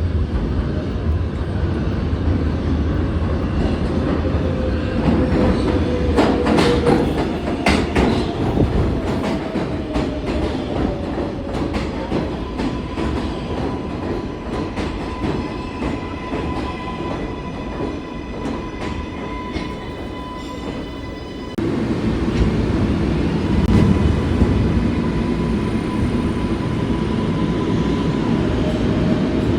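New York City subway train running on the rails: a steady rumble with a few sharp clicks of wheels over rail joints and thin whining tones. About two-thirds of the way through, the sound changes abruptly to a louder, deeper rumble.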